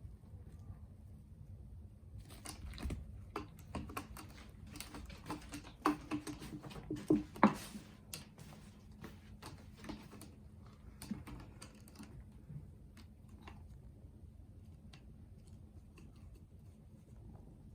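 Irregular light clicks, taps and rustles of a cat playing, thickest and loudest in the middle stretch, then thinning out to scattered ticks.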